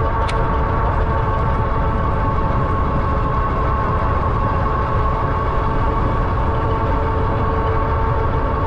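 Ariel Rider Grizzly e-bike riding at a steady speed: a steady motor whine over a heavy rumble of wind and tyres. There is one brief tick just after the start.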